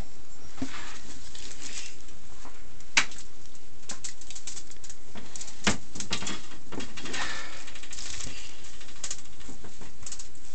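Scattered clicks and knocks of salmon racks being handled and loaded into a smoker, with two sharper clacks a few seconds apart, over steady background noise.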